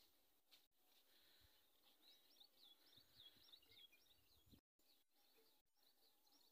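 Near silence with faint bird chirps: quick runs of short, high calls through the middle and again near the end.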